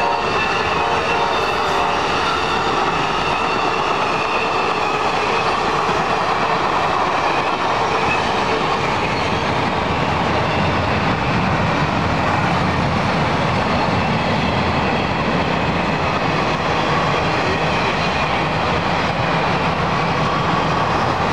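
Trains passing at speed close by: a steady rolling noise of steel wheels on rail with clickety-clack over the joints. The last cars of an Amtrak passenger train go by, then a CSX freight train's intermodal well cars.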